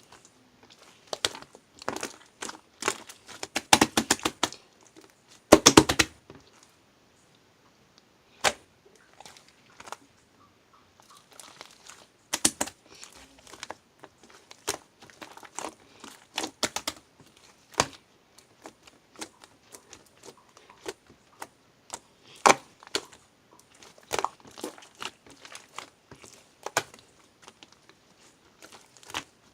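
Irregular close-up clicks, taps and crinkling, coming in scattered clusters with short pauses between.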